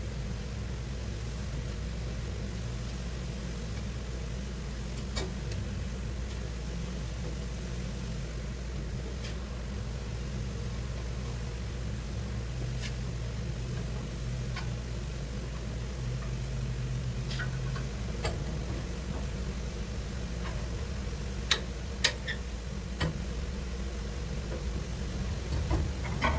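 A steady low mechanical hum, with scattered light clicks and taps that come more often in the second half.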